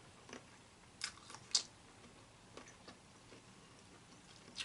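Faint eating sounds of crab claws and shrimp close to the microphone: a few short, sharp clicks and smacks, a cluster of them about a second in, then scattered softer ones.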